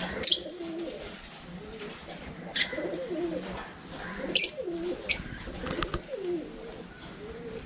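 Caged aviary birds calling: a run of low, gliding, cooing calls, with sharp high chirps breaking in five or six times.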